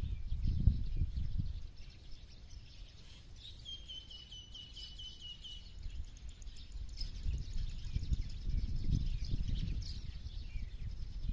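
Birds chirping and singing, with one bird giving a rapid trill of about ten short, evenly spaced notes a few seconds in. A low rumbling noise underneath swells near the start and again in the second half, and is the loudest part.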